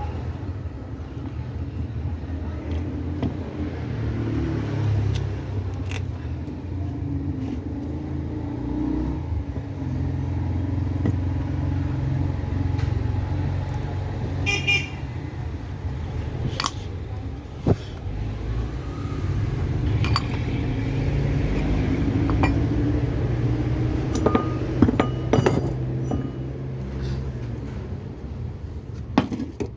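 Steady low hum of vehicle engines and road traffic, with scattered sharp clicks and knocks.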